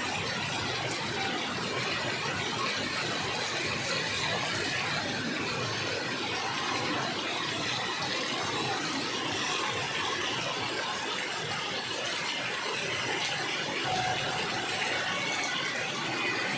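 Heavy rain pouring steadily, an even rushing hiss with no thunder.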